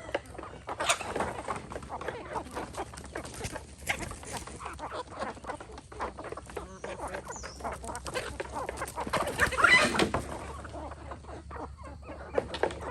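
Free-range chickens clucking, with many short clicks and rustles throughout and a louder burst about ten seconds in.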